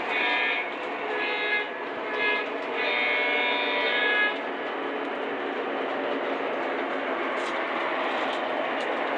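Lionel model train's electronic horn sounding four blasts, long, long, short and long, the grade-crossing signal, over the steady rumble of the train running on its track.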